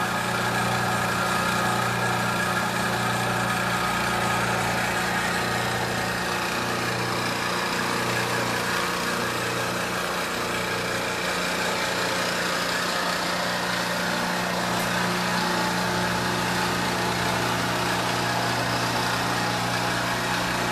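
Milling machine running steadily, its motor humming under the even noise of the cutter milling a backhoe part.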